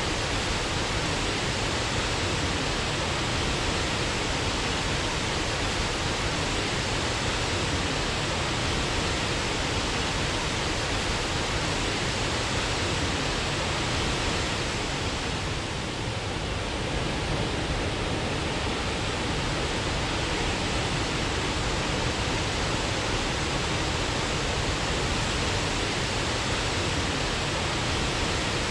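Waterfall: a steady, even rush of falling water, dipping slightly for a moment about halfway through.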